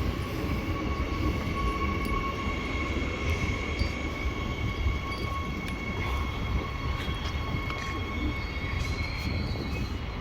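Perth electric suburban train running at the station: a steady low rumble with two steady high-pitched tones over it, which fade out about eight seconds in.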